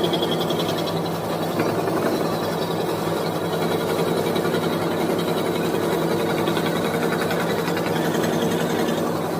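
Scroll saw running steadily, its blade stroking rapidly up and down as it cuts out the letters of a wooden name board.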